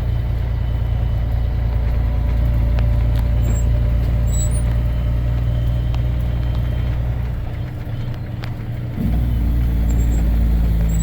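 Semi truck's diesel engine and road noise, a steady low drone. About eight seconds in the low end drops away briefly, and a little after nine seconds it returns with a new, steadier engine note.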